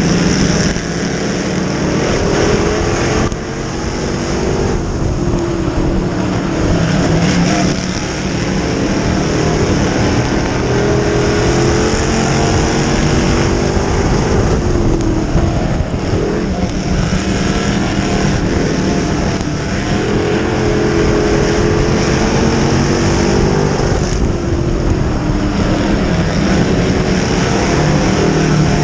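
Dirt-track race car engine running hard, its pitch climbing and dropping again every few seconds as it accelerates and lifts, as around the turns of an oval.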